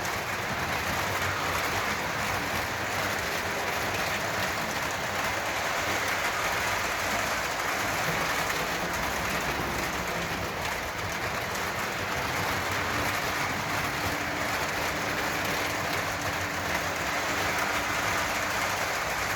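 Lionel O-gauge Conrail rectifier electric locomotive running steadily around the track pulling a train of freight cars: a continuous rolling rumble of its motor and wheels on the rails. A faint steady hum joins in partway through.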